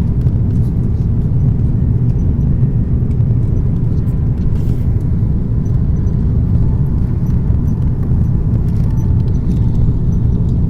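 Steady low rumble of cabin noise inside an Airbus A330-300 airliner: engines and rushing air heard through the cabin.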